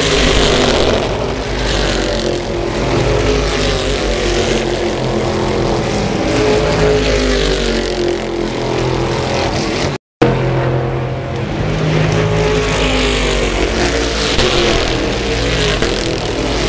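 Stock car racing engines running loudly on the circuit, their pitch rising and falling as the cars pass. The sound breaks off completely for a moment about ten seconds in, then the engines resume.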